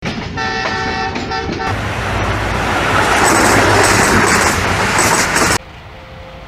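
A multi-tone train horn sounds in a few short blasts. It is followed by the loud rush of a passing train, which grows louder and then cuts off abruptly about five and a half seconds in, leaving a much quieter background with a faint steady tone.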